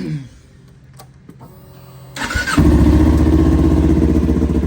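Kawasaki Ninja 400 parallel-twin engine started after an oil change: the starter cranks briefly a little after two seconds in, the engine catches, and it settles into a loud, steady idle that circulates the fresh oil.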